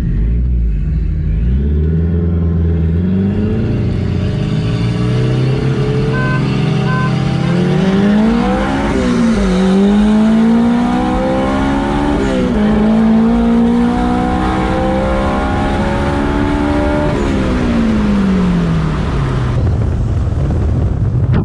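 A car engine under hard acceleration, its revs climbing through the gears with two quick drops at the shifts near the middle, then falling away as it lifts off near the end.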